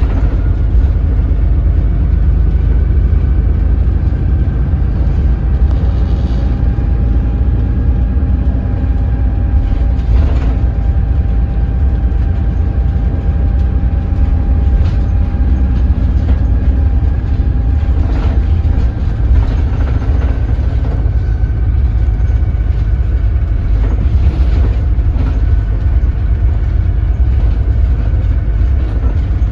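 Doosan DL08K diesel engine of a NEW BS106 city bus running at low speed and low revs: a steady, heavy low rumble with a faint whine above it. A few short knocks or rattles come through, around a third of the way in and again past the middle.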